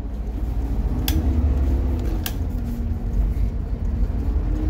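Low motor-vehicle engine and road rumble with a steady pitched hum that sags and rises again, and two sharp clicks about one and two seconds in.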